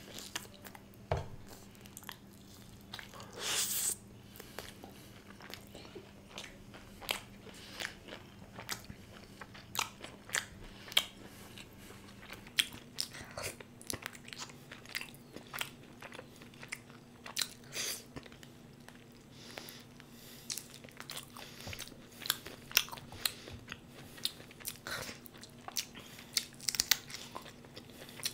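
Close-miked mukbang eating sounds: irregular bites, chewing and mouth clicks, with a short crunchy burst a few seconds in.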